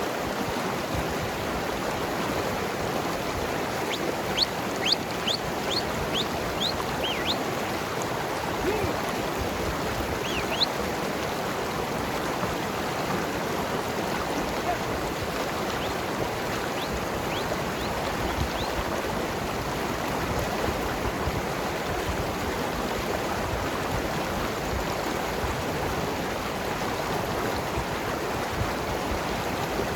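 Mountain river flowing and gurgling over rocks, a steady rushing of water. A short run of high chirps comes about four seconds in, with a few more later.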